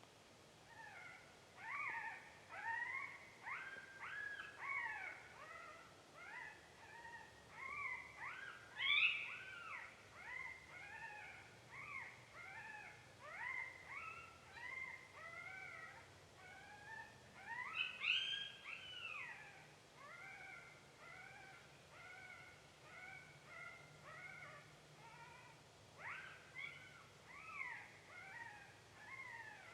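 Game call playing a young coyote pup distress sound: a fast run of high, whimpering yelps that rise and fall in pitch, a few each second, with louder cries about nine and eighteen seconds in.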